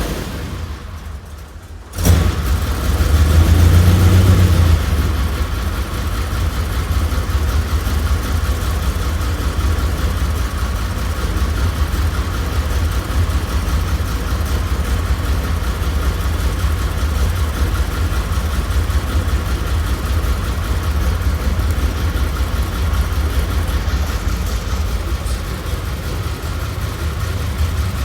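Ferrari 512 BB flat-twelve engine on a cold start. It falls away to a lull, then comes up sharply about two seconds in, revs for a few seconds and settles into a steady idle.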